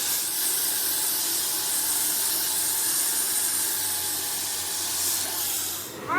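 Steady hiss of air or spray, cutting off suddenly near the end.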